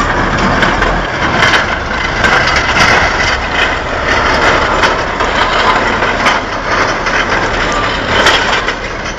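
A heavy truck's engine running as a loud, steady noise, with scattered sharp knocks and clanks throughout.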